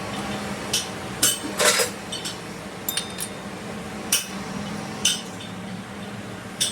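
Metal tools and parts clinking and knocking against each other, about nine sharp strikes at uneven intervals, over a steady low hum.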